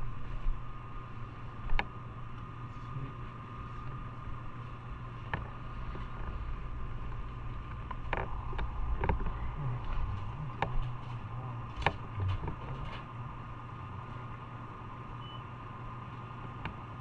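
Motorcycle engine running steadily, a low even hum with a faint constant whine above it and a few scattered sharp clicks.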